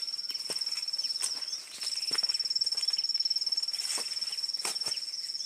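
An insect's continuous high-pitched pulsing trill, breaking off briefly just before the two-second mark and then resuming. A few soft knocks or steps sound over it.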